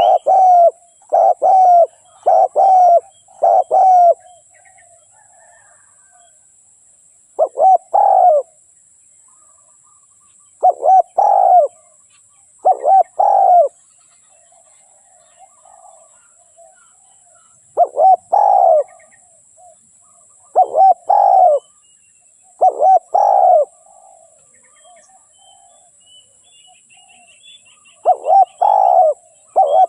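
Spotted dove cooing: deep coo phrases of two or three notes, coming in clusters with pauses of a few seconds between them, with a quicker run of coos in the first four seconds and again near the end. Faint chirps of another small bird are heard in the background.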